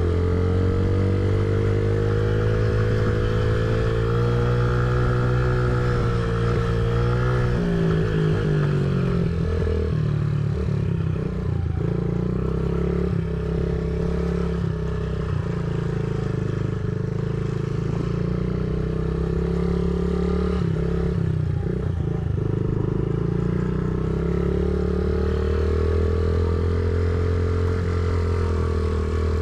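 Honda CRF50's small four-stroke single-cylinder engine running on a motocross track, its note rising and falling with the throttle. Through the middle stretch it sounds choppier and more broken, with some clatter, before settling back to a steady drone near the end.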